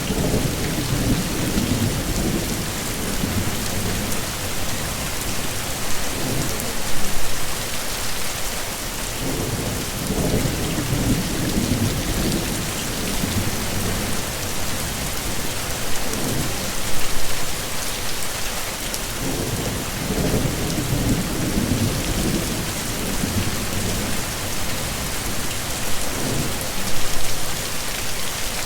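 Heavy rain falling steadily, with low rolling thunder that swells and fades every few seconds; three louder rumbles come about ten seconds apart.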